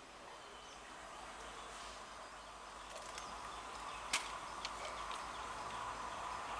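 EMU local train approaching, a faint hum of its running gear growing steadily louder, with a few sharp clicks, the loudest about four seconds in.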